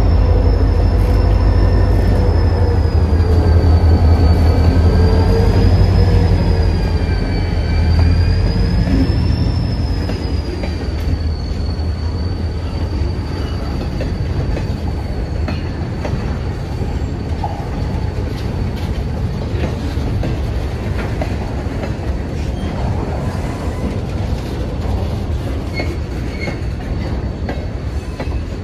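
EMD GP40-2 diesel locomotive, with its turbocharged 16-cylinder 645 engine, rumbling past at low speed. A wavering high squeal sounds over it in the first half. After about ten seconds the engine fades and loaded freight cars roll by, their wheels clicking over the rail joints.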